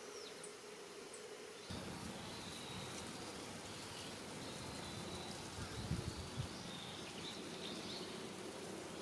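Quiet outdoor background noise with faint, short high chirps scattered through it and a few soft low thumps about six seconds in.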